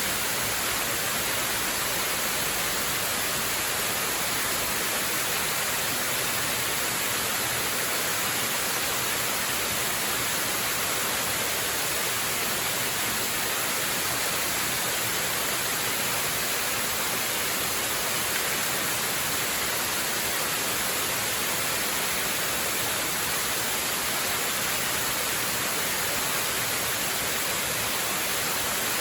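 Waterfall: a steady, unbroken rush of falling water, mostly bright hiss with little low rumble.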